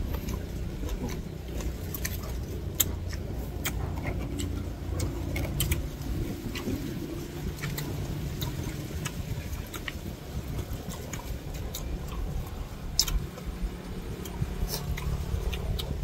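A car engine idling steadily, heard from inside the car with the air-con on, with scattered small clicks and taps over the hum.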